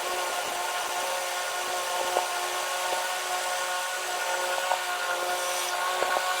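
A small lawn-equipment engine running steadily at high speed, with an even, droning tone.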